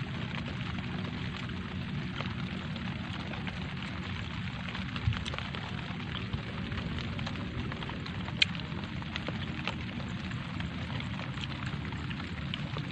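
Light rain falling on leaves and puddles: a steady hiss dotted with many small drop taps, with a couple of sharper, closer drops about five seconds and eight seconds in.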